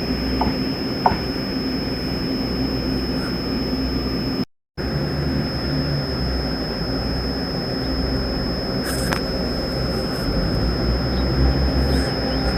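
Steady low rumble of a train at a station, with a constant high-pitched whine over it. The sound cuts out completely for a moment about four and a half seconds in.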